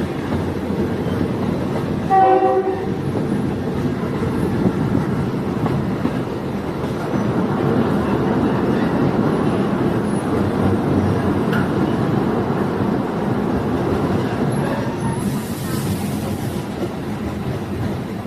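Diesel multiple unit train running steadily along the track, with a short horn blast about two seconds in and a brief high hiss near the end.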